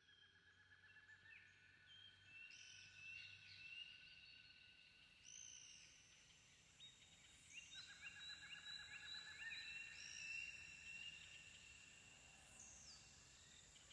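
Faint chorus of several birds singing: overlapping whistled notes and slurred calls, with a rapid trill about eight seconds in.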